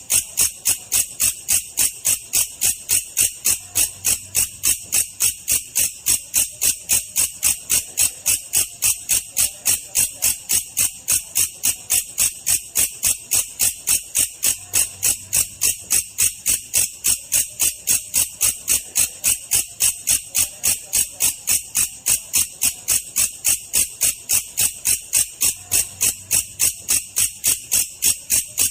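Belalang kecek katydid calling in a slowed-down recording: an unbroken, even train of short, high chirps, about three a second.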